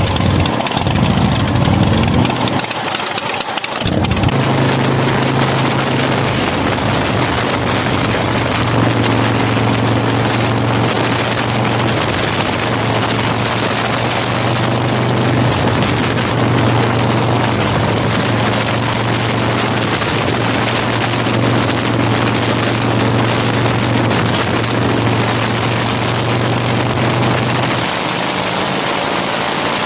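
Big Dog K9 chopper's V-twin engine running at a steady highway cruise under heavy wind rush on the bike-mounted microphone. The engine note settles into a steady drone about four seconds in and fades into the wind near the end.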